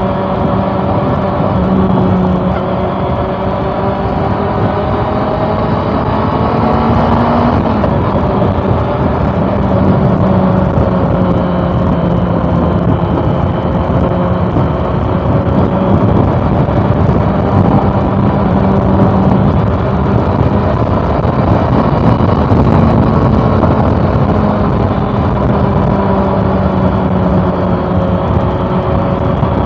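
Honda CB400 Super Four's inline-four engine running under way, its note held fairly steady with small rises and falls. About seven seconds in it rises briefly, then drops back.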